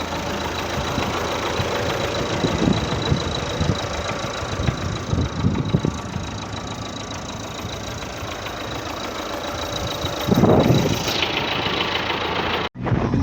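MTZ-82 tractor's four-cylinder diesel engine running steadily, briefly louder about ten seconds in, cut off suddenly near the end.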